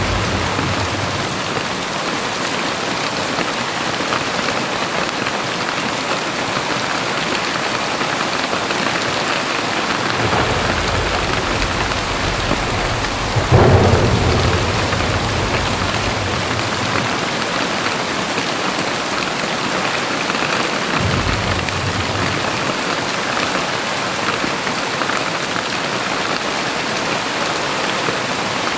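Heavy rain pouring steadily, with thunder: a low rumble from about ten seconds in that breaks into a sharp crack near the middle, and a shorter rumble later on.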